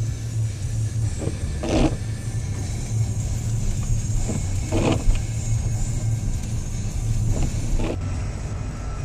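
Inside a moving car in snow: steady low engine and road rumble, with the windshield wipers swishing. Each wiper pass gives two strokes about half a second apart, and the passes come roughly every three seconds.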